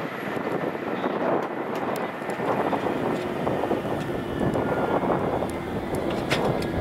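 LNER Azuma high-speed train (Hitachi Class 800/801) approaching on the track, a steady rushing noise.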